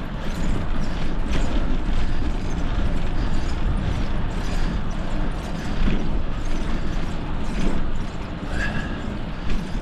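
Wind buffeting the microphone of a rider on a moving bicycle: a steady low rumbling noise.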